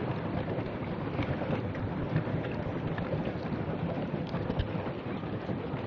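Pedal boat's paddle wheel churning and splashing water, a steady rushing noise with a few small splashes, mixed with wind buffeting the microphone.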